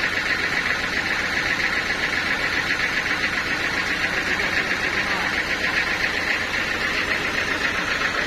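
Sawmill machinery running with a steady, unchanging mechanical drone and a fast, even flutter.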